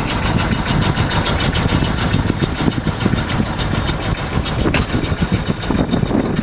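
A sailboat's auxiliary engine running steadily as the boat motors away from the dock before the sails are set, with a single sharp knock about three-quarters of the way through.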